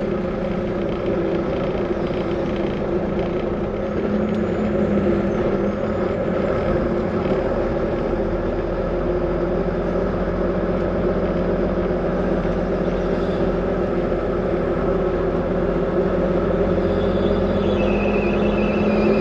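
Diesel engine of a 2020 Volvo VNL 860 semi truck running steadily at low speed, heard from inside the cab as a constant drone.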